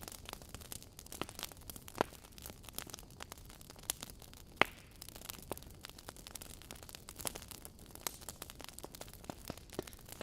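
Wood fire burning in a fireplace, with irregular crackles and pops over a low steady hiss; a sharp pop about two seconds in and the loudest near the middle.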